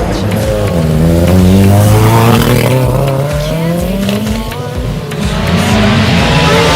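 Car engine revving. Its pitch drops about half a second in, climbs slowly over the next few seconds, and rises again near the end.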